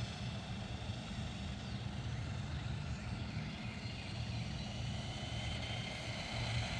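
Faint, steady whine of a 1/18-scale electric RC monster truck's motor and drivetrain running, drifting slightly in pitch, over a steady low rumble.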